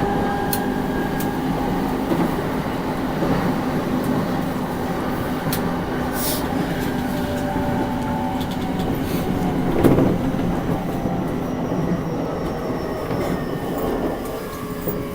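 E233-1000 series electric train running, heard from inside the passenger car through a flip phone's microphone: a steady rumble of wheels on rail with the drone of its traction motors. There is a knock about ten seconds in, and a few of the tones fall in pitch near the end.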